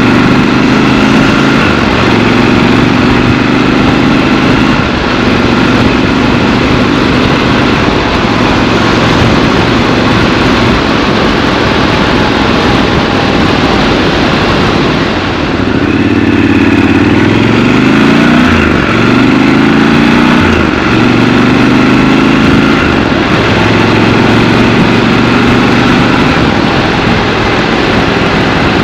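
Triumph Scrambler 1200 XC's 1200 cc parallel-twin engine on the move in traffic. Its pitch steps up and down with throttle and gear changes, drops away briefly about halfway through, then rises again as the bike accelerates through the gears.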